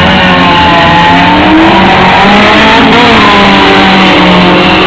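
Toyota Corolla 1.8 and Mustang GT accelerating hard off the drag-strip start line, their engine pitch climbing and dropping back at each gear change. Very loud.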